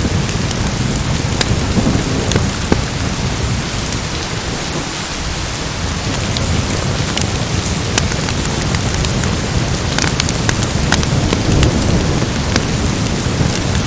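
Steady rain in a thunderstorm, with a low, continuous rumble underneath and scattered sharp crackles and pops throughout.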